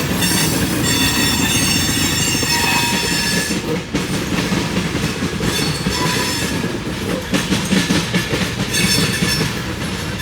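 Camp Chase Railway freight train rolling past with a heavy rumble and clatter. Its wheels squeal on and off in a high, ringing whine, strongest in the first few seconds and again later.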